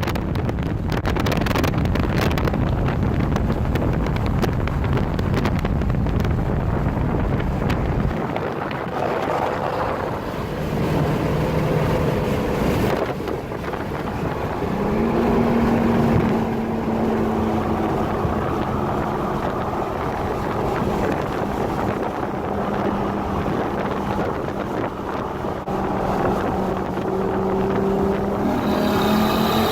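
A car driving at speed, its engine running under heavy wind buffeting on the microphone for the first several seconds. After that a steady engine note comes through, rising briefly about halfway through and then holding.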